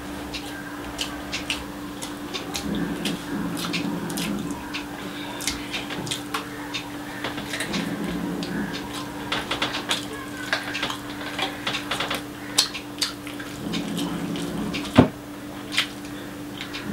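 Close-miked eating sounds: wet chewing and lip-smacking of fried rice and curried boiled egg, with many sharp irregular mouth clicks and a louder snap near the end, and fingers working rice on a china plate. A steady low hum runs underneath.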